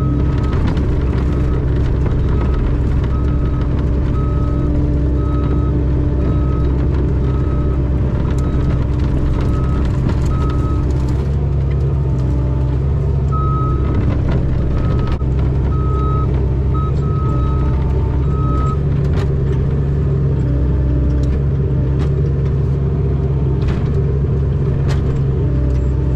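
Mini excavator diesel engine running steadily with its travel alarm beeping about once a second; the beeping stops about eleven seconds in, comes back for a few seconds, then stops again.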